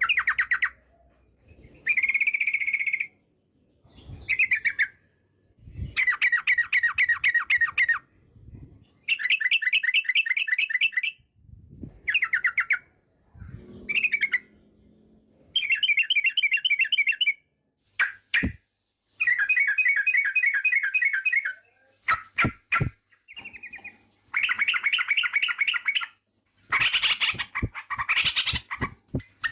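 Yellow-vented bulbul (trucukan) singing in repeated bursts of fast chattering notes. Each burst lasts a second or two, with short pauses between them, and a few sharp clicks fall in the second half.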